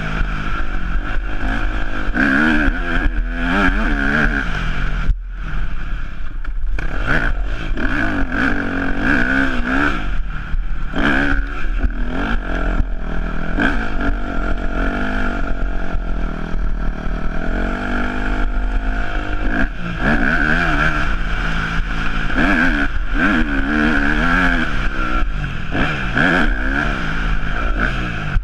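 Yamaha YZ250F's four-stroke single-cylinder engine revving up and falling back over and over as the rider opens and shuts the throttle around the track, with a short cut in the engine note about five seconds in.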